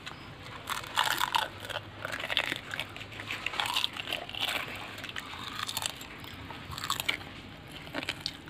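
Crisp fried puchka (pani puri) shell crunching as it is bitten and chewed, in several separate bursts of crunching.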